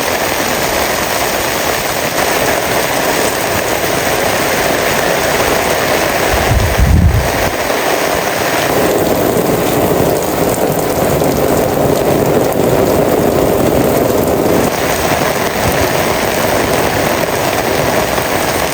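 Heavy rain falling steadily on surfaces, with a brief low thump about seven seconds in.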